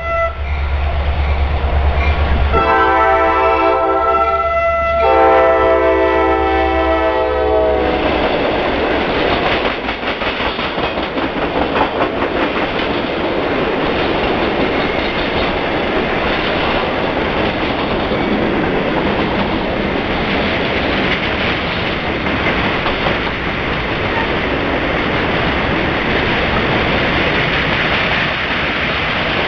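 Norfolk Southern work train's diesel locomotive sounding its multi-tone air horn in several long blasts over a low engine drone, the horn ending about eight seconds in. The train then passes close by with steady wheel and rail noise and a fast clatter of wheels over rail joints.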